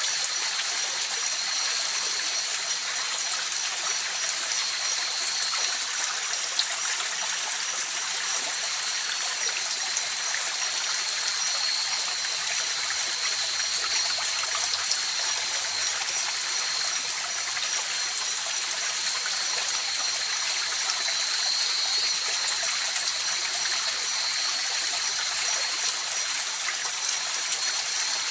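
River water flowing with a steady rush, with a continuous high-pitched trill of night insects above it.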